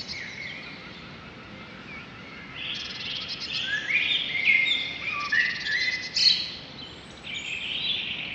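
Songbirds chirping and singing, many short overlapping calls and quick pitch slides over a faint steady background hiss, growing busier about a third of the way in.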